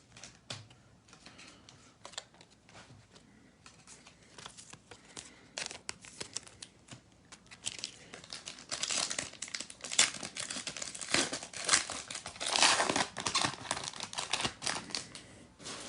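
Trading card pack's foil wrapper being torn open and crinkled, with cards handled. Faint scattered rustles at first, then louder, denser crinkling in the second half.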